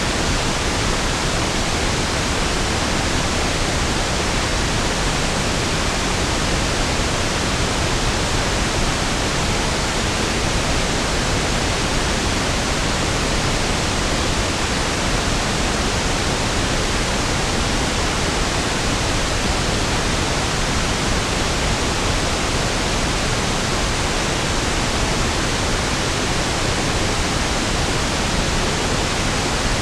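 Steady pink noise: an even, unchanging hiss spread across the whole range, with no tones or events.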